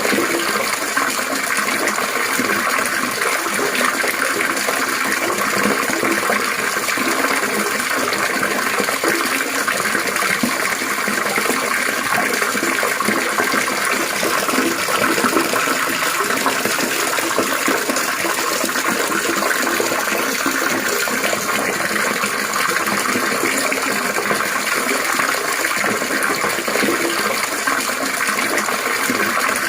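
Running water trickling and splashing steadily, an even, unbroken rush with no pauses or changes.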